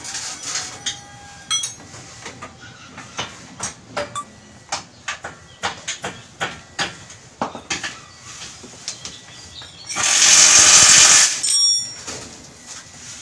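Metal parts and hand tools clinking and knocking over and over during a steering rack repair, then a loud hiss lasting just over a second about ten seconds in.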